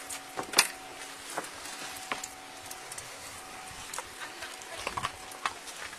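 Scattered sharp clicks and knocks, the loudest about half a second in, over a faint steady hum.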